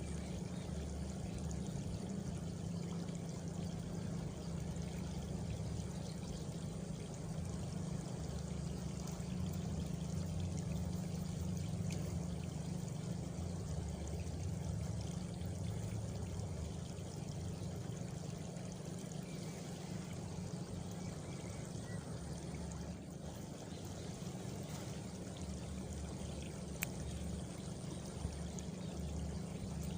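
Steady, even rushing like flowing water, with a faint high insect chirr above it and a single sharp click near the end.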